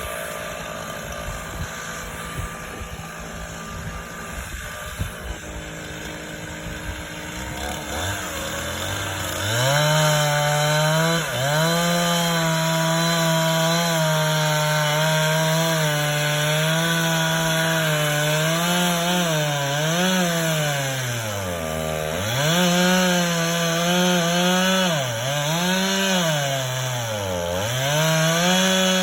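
Two-stroke chainsaw idling at first, then throttling up about nine seconds in and cutting, apparently into the fallen pine. Its engine note sags and recovers again and again as the chain bogs in the wood, more often near the end.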